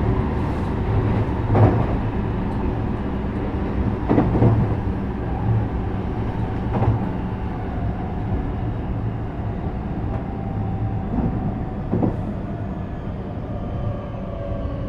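JR West 321 series electric train heard from inside the car, running with a steady rumble of wheels on rail. There are occasional sharp clacks over rail joints, four in all and a couple of seconds apart. Faint thin motor tones come in later, gliding slightly downward as the train slows on its approach to a station.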